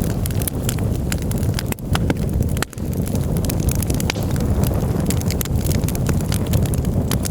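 Campfire burning, with many sharp, irregular crackles and pops from the wood over a steady low rumble.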